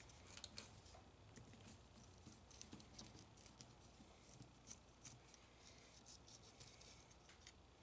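Faint, scattered small clicks and taps of hand tools and metal parts being handled.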